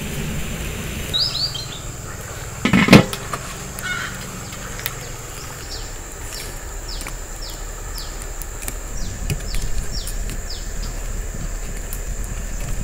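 A bird calling in the open: a run of short, quick downward chirps, about two a second, through the second half, with a pair near the start. A brief loud knock about three seconds in is the loudest sound.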